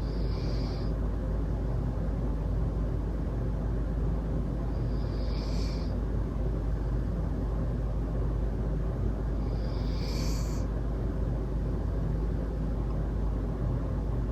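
Sleeping Labrador-mix dog snoring softly: three slow breaths about five seconds apart, over a steady low rumble.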